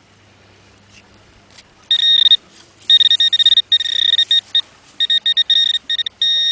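Metal detector's alert tone sounding in rapid, uneven on-off pulses from about two seconds in, one steady high pitch. It keeps going off over ground full of scrap metal.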